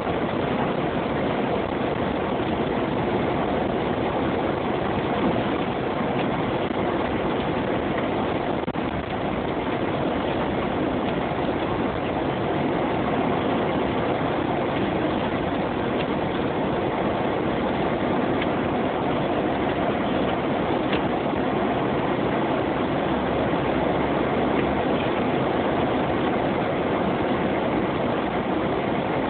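A Jeep driving through snow: a steady mix of engine and road noise.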